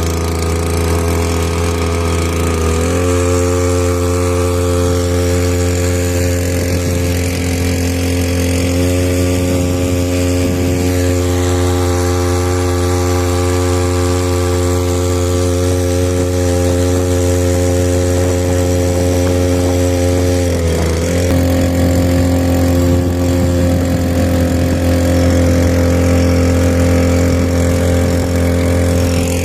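Spare Chinese-made 2-horsepower outboard motor running steadily. Its pitch shifts slightly a few seconds in and dips briefly about two-thirds of the way through.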